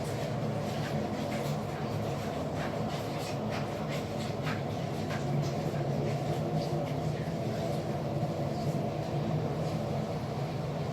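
Steady low mechanical hum, with many short scratchy rubbing sounds scattered through it.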